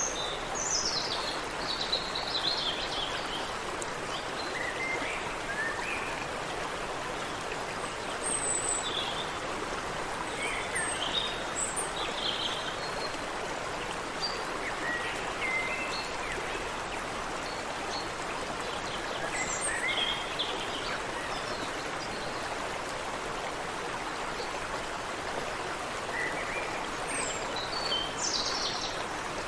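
Creek water running steadily, with small songbirds giving short high chirps and trills on and off over it, most of them at the start and near the end.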